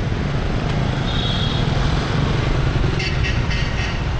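Motorbike riding in dense city traffic: a steady engine and road rumble heard from the rider's seat, with a brief high tone about a second in and a few sharp ticks near the end.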